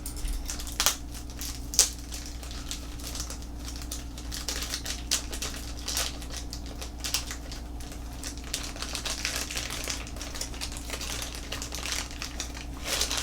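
Packaging being opened and handled while a small coffee distribution tool is unpacked: irregular small clicks, taps and crinkles, over a steady low hum.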